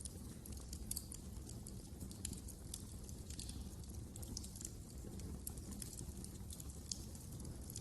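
Wood fire crackling in a fireplace: many sharp irregular pops and snaps, several a second, over a soft steady low rumble of the flames.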